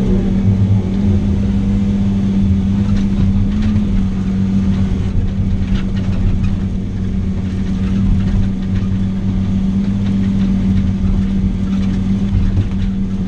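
Heavy diesel engine running steadily at a constant pitch.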